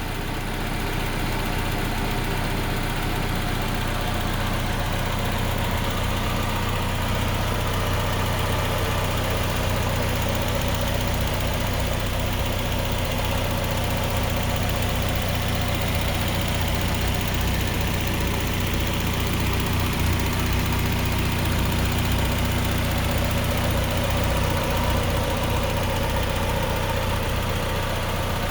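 Engine idling steadily with no lifter tick, a sign that the valve lifters are now quiet.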